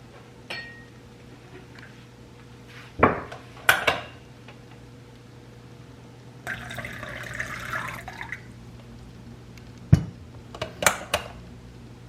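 Kitchen handling sounds: a few sharp clinks of glass tableware, and liquid poured for about two seconds in the middle.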